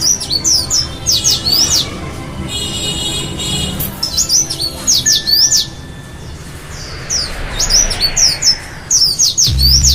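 Small songbird, a white-eye, chirping in quick bursts of high, sweeping notes, the bursts coming every second or so.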